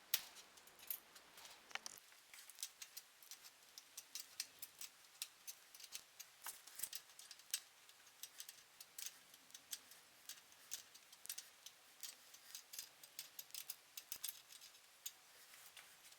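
Light, irregular clicks and ticks, a few a second, from small hard parts being handled and fitted by hand during bicycle assembly.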